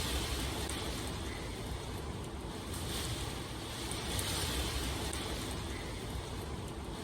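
Steady rain, an even rushing hiss that swells and eases gently every few seconds.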